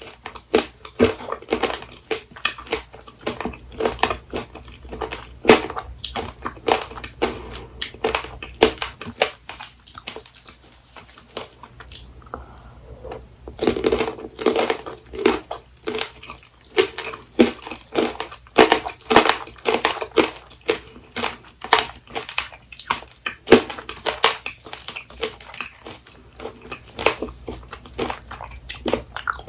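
Close-miked chewing of apricot tanghulu: the hard candied sugar shell cracking and crunching in rapid, irregular bites. It thins out briefly about ten seconds in, then goes on densely.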